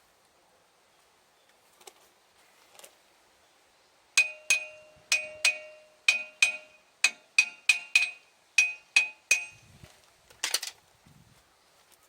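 A hammer striking metal: about a dozen sharp, ringing blows, two to three a second, working on a truck wheel during a tire change. A single rougher clatter follows about a second after the last blow.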